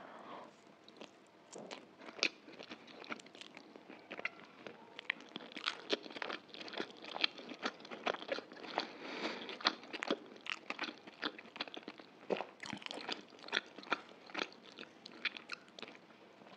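A person chewing a mouthful of chicken chow mein noodles, with wet mouth clicks and crunches coming several times a second.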